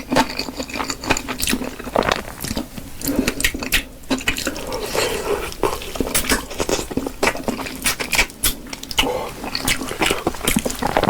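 Close-miked eating: wet, squishy chewing with many short mouth clicks and crackles.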